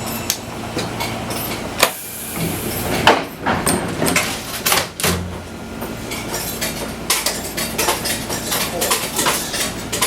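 Inside an old Fukui Railway 200-series electric railcar: a steady hum from the car with many irregular clicks, knocks and rattles over it, the sharpest about two and three seconds in.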